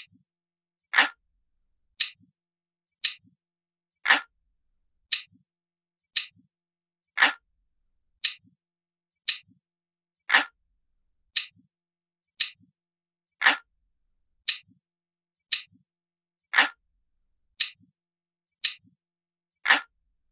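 Glass-like clock ticking, one crisp tick about every second, with every third tick louder and fuller.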